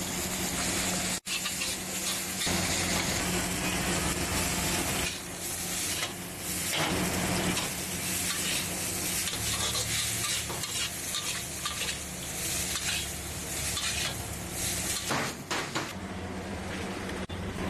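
Dosa sizzling on a hot griddle while a metal spatula scrapes and stirs across the pan, spreading and chopping the toppings.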